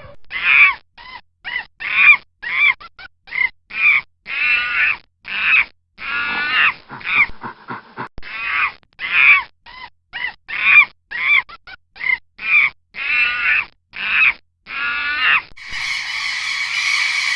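A bird or animal calling over and over, short calls mixed with longer drawn-out ones, roughly one or two a second. About a second and a half before the end it gives way to a different, steady sound.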